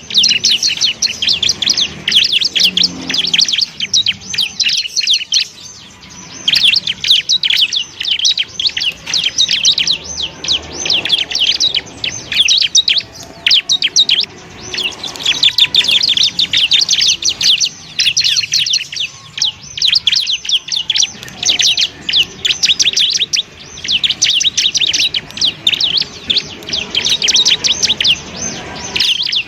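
Ciblek (bar-winged prinia) singing: fast, high-pitched chattering trills in long, dense phrases broken by brief pauses.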